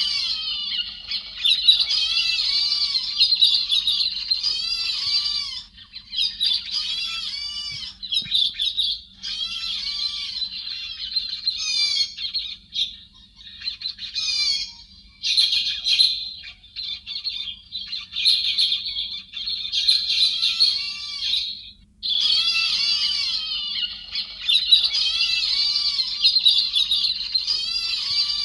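Recorded song of the héc xoan, a bird of the thrush family as named in Vietnamese, played as a trapping lure call: bouts of rapid, scratchy chattering calls a few seconds long, broken by short pauses, over a faint steady hum.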